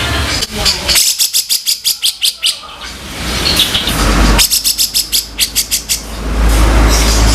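Grey-cheeked bulbul (cucak jenggot) giving harsh rattling calls: two fast runs of rasping clicks at about seven a second, one about a second in and one in the middle. Each run lasts one to two seconds. A low rumbling hiss fills the gaps between them.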